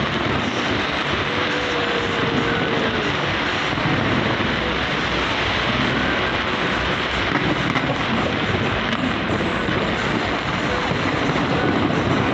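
Fireworks display heard as a continuous, steady rumbling din through a phone microphone, the explosions running together with no single bang standing out.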